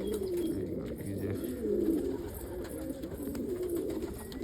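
A flock of domestic pigeons cooing together in a loft, a continuous low, overlapping warble.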